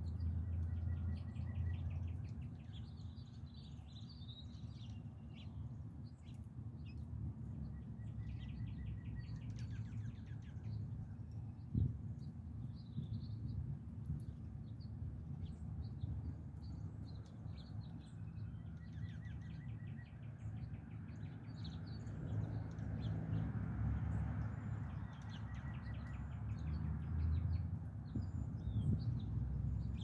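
Songbirds chirping and trilling on and off, with a short held whistled note repeated several times, over a steady low rumble; one sharp click about twelve seconds in.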